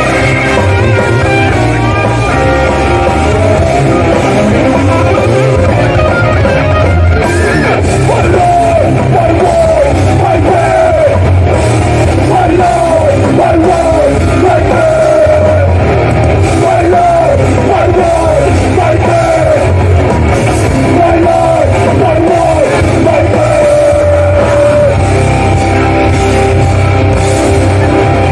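A live hardcore punk band playing loud: distorted electric guitars, bass and drums, continuous and dense, with sung or yelled vocals.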